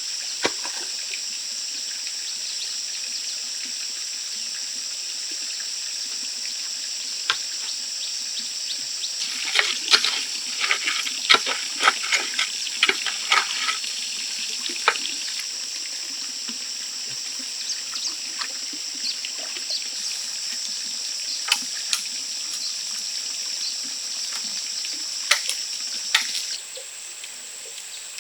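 A steady high-pitched drone with scattered sharp clicks and knocks, which come thickest about ten to thirteen seconds in; the drone stops abruptly near the end.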